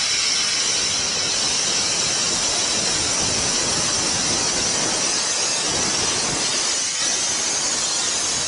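An 1891 Baldwin steam locomotive blowing steam from its open cylinder cocks as the throttle is opened to start it off: a loud, steady hiss.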